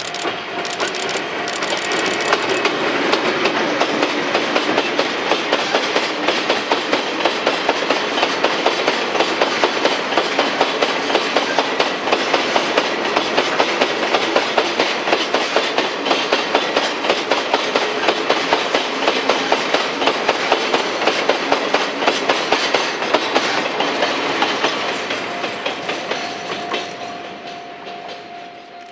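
A limestone freight train's loaded wagons roll past on a Chichibu Railway line behind a Deki 300 electric locomotive. The wheels clatter over the rail joints in a fast, even rhythm of several clacks a second, which fades away over the last few seconds.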